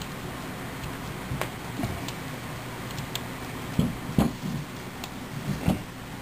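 Plastic parts clicking and knocking while a sprinkler valve is screwed into a threaded PVC reducer fitting: scattered light clicks, with three louder knocks in the second half, over a low steady background noise.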